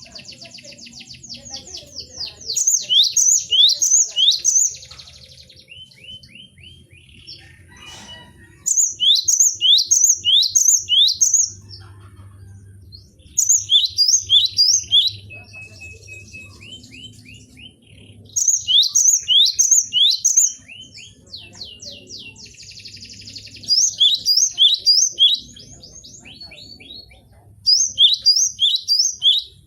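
Gelatik batu (great tit) singing loud phrases of rapid, falling high-pitched notes, each phrase lasting about two seconds and repeated every few seconds, six times over.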